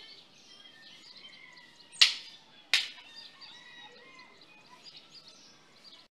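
Birds chirping over a faint outdoor background, broken by two sharp, loud knocks about two seconds in, less than a second apart.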